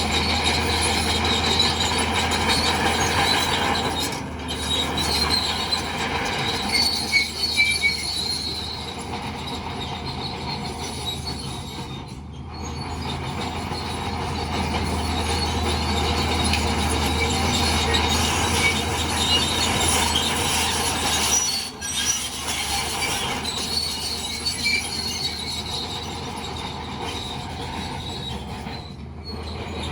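Crawler bulldozer at work, its diesel engine running with a low steady hum while the steel tracks squeal and clank.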